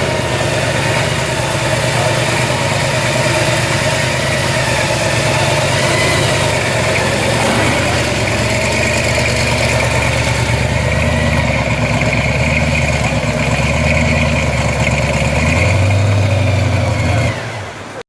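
Car engine idling steadily, rising briefly near the end before cutting off suddenly.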